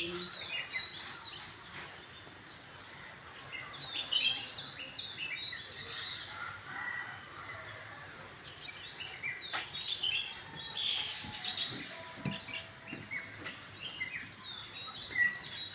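Small birds chirping and calling outdoors in repeated quick bursts of short, high chirps, over steady background noise.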